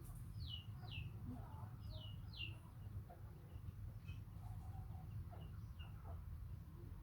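A small bird chirping: two pairs of quick, falling chirps in the first half, then a few fainter short chirps, over a steady low background rumble.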